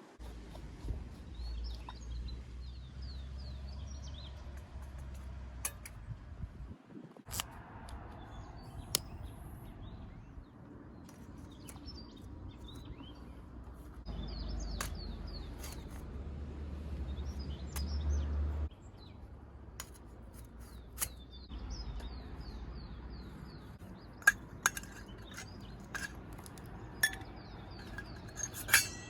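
Scattered light clinks of camp dishes and utensils, thickest near the end, over small birds chirping again and again. A low rumble comes and goes twice.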